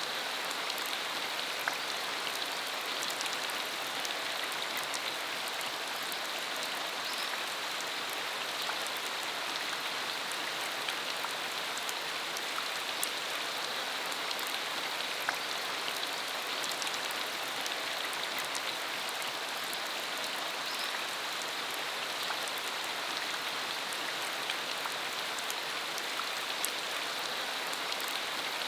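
Steady rain falling on a dirt road, an even hiss with scattered individual drop ticks.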